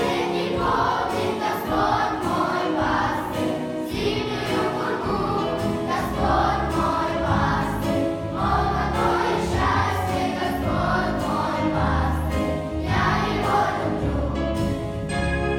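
A group of voices singing a Christian children's song together over instrumental accompaniment with a steady bass line.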